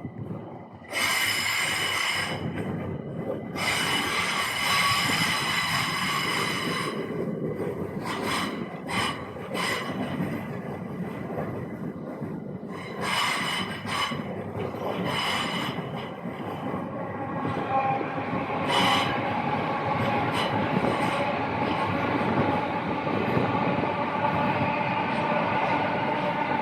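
Train passing close by: high-pitched wheel squeal starts suddenly about a second in and comes and goes over the rumble of the wheels. Later the squeal dies away and a steady rumble remains, with a tone that slowly rises.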